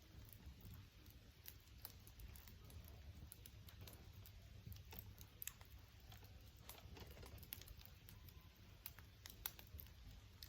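Wood fire crackling faintly: scattered small, irregular pops and snaps.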